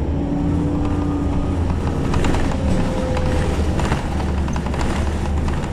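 City bus running, heard from inside the cabin: a steady low engine rumble with a faint whine, and rattling from the body and fittings from about two to four seconds in.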